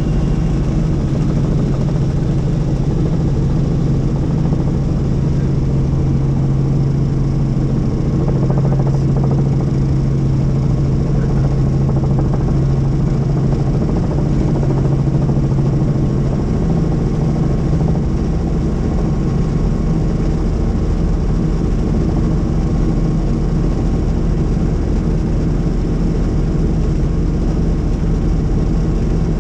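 Helicopter in flight: steady, loud engine and rotor noise with a strong low hum, which shifts slightly a little past halfway.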